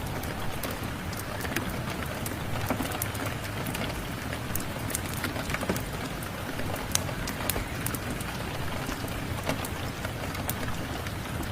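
Steady rain falling, with irregular sharp pops and snaps of a crackling wood fire scattered through it.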